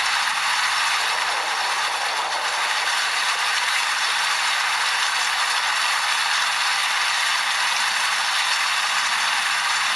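Steady rain falling, an even, dense hiss of drops that doesn't let up.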